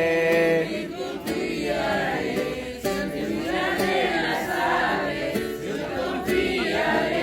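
A group of voices singing together in unison, a Christian song; the word "temeré" is held at the start, and the singing then runs on with no clear words.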